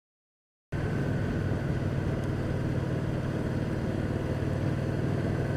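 Motorcycle engine running at a steady speed while riding, with wind noise; the sound cuts in suddenly just under a second in.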